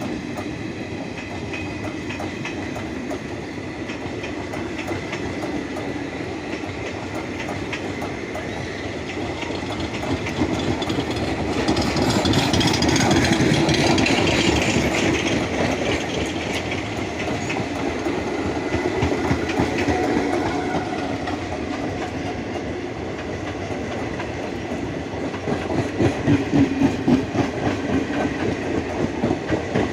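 Train coaches rolling along the track, wheels clattering over rail joints. The sound is louder with a high hiss about halfway through, and near the end comes a regular clickety-clack of about two beats a second.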